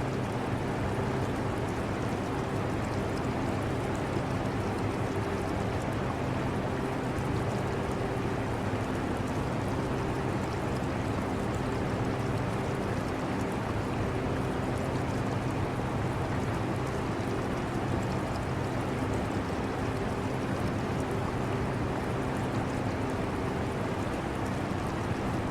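Air conditioner running with a steady low hum, mixed with the trickling, bubbling water of an aquarium.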